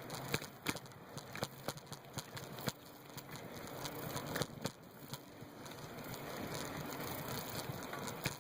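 Bicycle being ridden, heard from a phone mounted on the bike: a steady rush of tyre and wind noise with frequent irregular rattles and clicks from the bike and mount over bumps.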